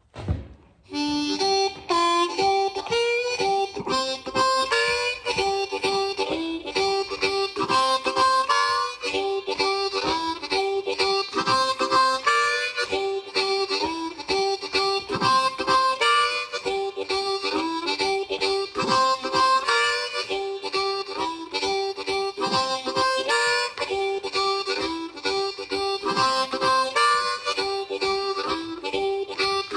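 Blues harmonica playing a riff again and again, some notes bending in pitch. A short thump comes just before the playing starts.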